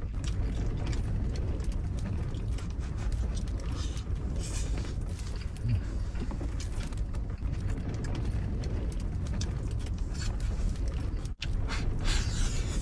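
Strong wind outside the small camper making a steady low rumble, with scattered light clicks and scrapes of handling throughout; the sound cuts out for an instant near the end.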